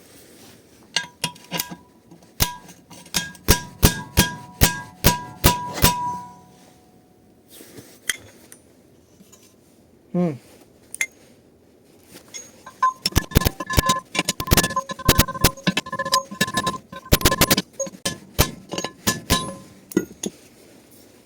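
Hammer blows driving a 6205 ball bearing into a GX200-clone engine's crankcase, each strike with a short metallic ring. About ten spaced blows in the first six seconds, then a faster run of many lighter taps from about halfway until near the end.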